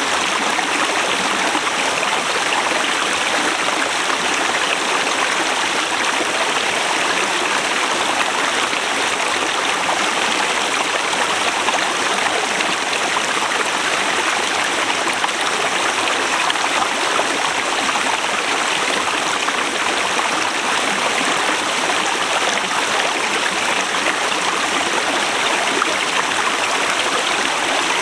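Forest river flowing steadily, an even rush of water with no breaks.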